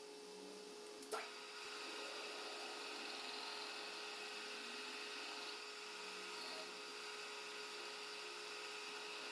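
A click about a second in, then a metal lathe running steadily with an even hum and whine of several fixed tones.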